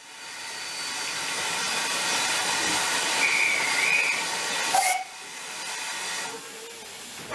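Steam hissing from a pannier tank steam locomotive, loud and steady, cutting off sharply about five seconds in and followed by a quieter hiss.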